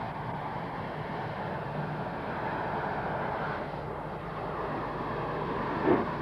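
Steam train running with a steady rumble. Near the end, the first of a run of sharp exhaust beats from the locomotive comes in.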